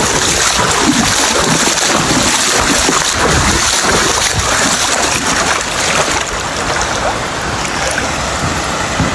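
Fast-flowing floodwater rushing, a loud, steady noise of moving water.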